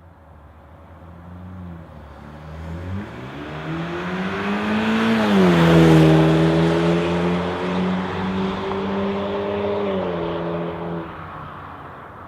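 BMW 328i/428i 2.0 L turbocharged four-cylinder running through a Hooker Blackheart axle-back exhaust with stainless straight-through mufflers, accelerating with rising pitch. The pitch drops sharply about five seconds in, holds steady, then falls away near the end, while the sound grows louder, peaks about six seconds in and fades.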